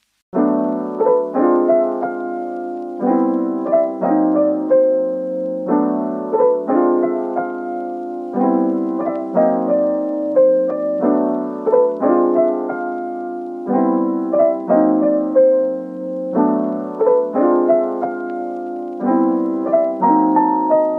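Background piano music: a gentle, repeating pattern of chords and melody notes that starts suddenly a moment in.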